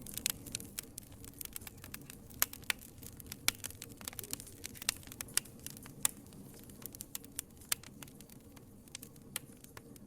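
Wood fire crackling in a fireplace: irregular sharp pops and snaps, some much louder than others, over a low steady hiss of flames.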